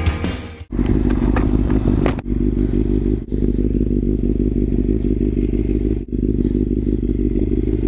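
Kawasaki ZZR600 motorcycle's inline-four engine running steadily at a constant speed, cutting out briefly a few times.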